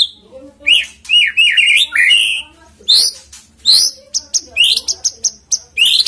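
White-rumped shama (murai batu) singing: quick warbled phrases and sharp rising whistles in short bursts with brief pauses, turning into a rapid run of short clipped notes in the second half.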